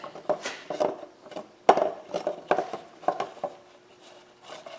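Small hard parts of a kayak pedal drive's gear housing clicking, knocking and scraping as they are worked apart by hand against a tight press fit, with one sharper knock a little under two seconds in.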